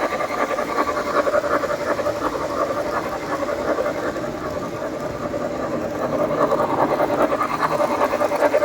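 O gauge model train running on its track: a rapid clatter of wheels on the rails over a steady motor hum. It fades a little midway and comes louder again near the end.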